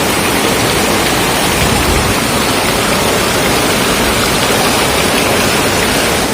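Heavy rain coming down hard, a steady dense hiss.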